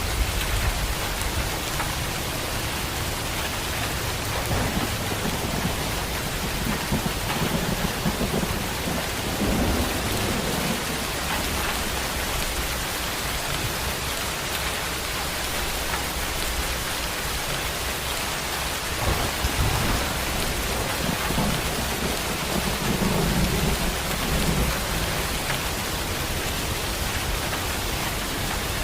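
Heavy rain pouring steadily, with rolls of thunder rumbling low several times, loudest near the end.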